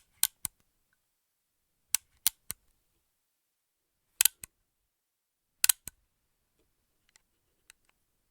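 .50-calibre gun being cocked by hand: sharp metallic clacks in four bursts of two or three, about two seconds apart, with two faint ticks near the end.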